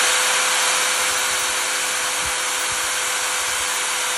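Electric drill running at a steady speed, with a steady motor whine over a loud hiss.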